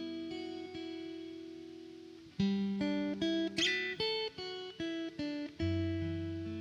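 Plucked-string instrumental introduction. Chords are struck and left ringing, a new chord comes about two and a half seconds in, then a quick run of short picked notes, and a fuller chord near the end.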